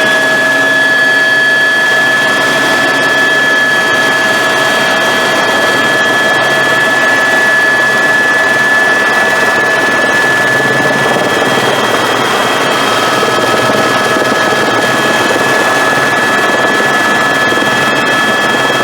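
Helicopter in flight, heard from inside the cabin: a loud, steady engine and rotor noise with a steady high-pitched whine over it.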